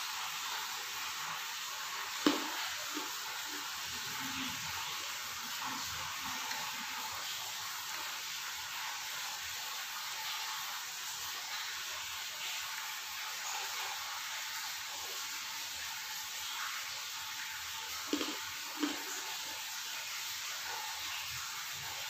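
Quiet chewing of grilled chicken satay over a steady hiss, with a few sharp clicks about two seconds in and twice near the end.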